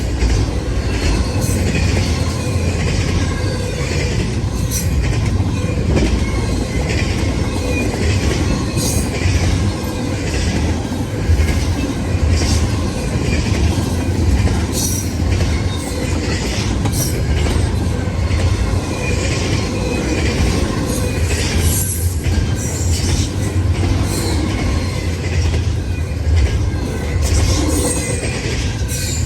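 Intermodal freight train rolling past: a steady rumble of steel wheels on rail, scattered clicks as the wheels cross the rail joints, and faint wheel squeal.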